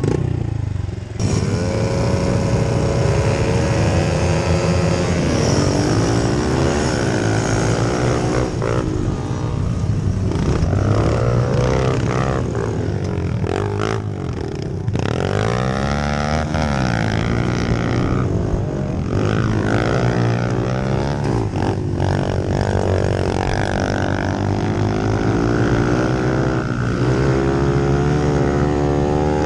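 Pit bike racing: small motorcycle engines revving up and down, their pitch rising and falling over and over, with more than one bike heard at once.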